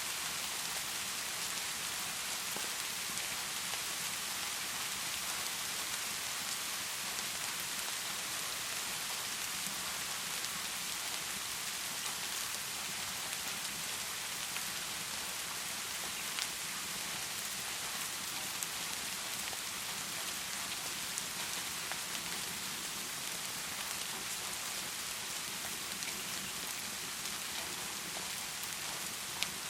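Steady heavy rain, an even, continuous hiss of rainfall, with a few sharp ticks scattered through it.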